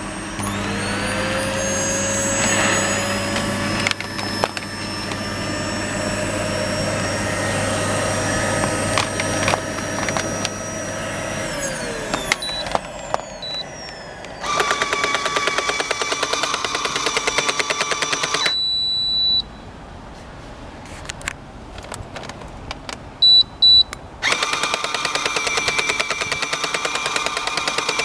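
Sharp EC-VX2 cyclone vacuum cleaner's motor starting with a rising whine, running steadily, then winding down with a falling pitch. It starts again with a rapid fluttering sound, stops, and runs once more, with short high beeps in between.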